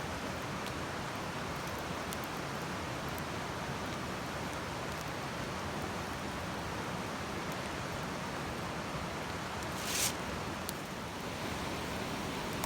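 Campfire burning with a steady rushing hiss and scattered faint crackles, and one short, sharp hiss from the fire about ten seconds in.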